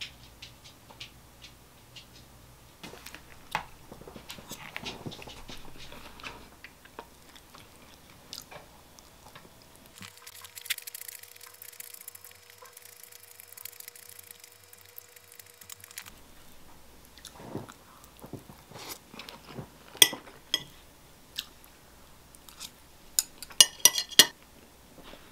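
Close-up eating sounds: chewing and biting into seaweed-wrapped gimbap, with steel chopsticks clicking against a ceramic plate, sharpest near the end. About ten seconds in, a few seconds of fast-forwarded playback change the sound to a thin hiss.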